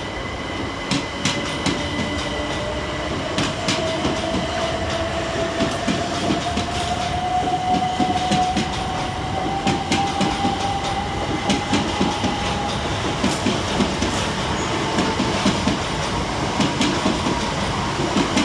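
Southern Class 377 Electrostar electric multiple units, three coupled together, pulling away: the traction motors give a whine that rises slowly and steadily in pitch as the train accelerates, while the wheels click repeatedly over the rail joints.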